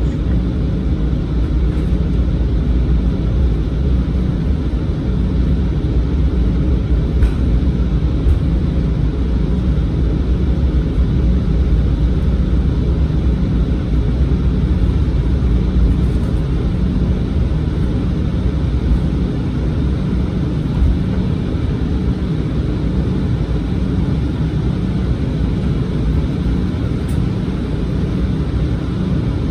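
Steady low rumble inside the passenger cabin of an Embraer regional jet, from its turbofan engines and airframe running at an even, low power on the ground before takeoff.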